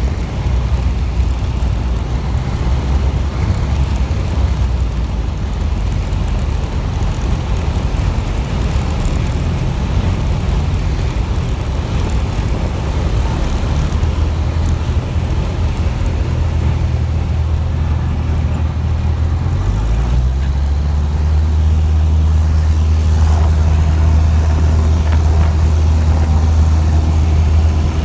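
Steady low drone of an aircraft's engine heard from on board, over a rush of wind noise. About twenty seconds in, the engine note steps up in pitch and grows a little louder.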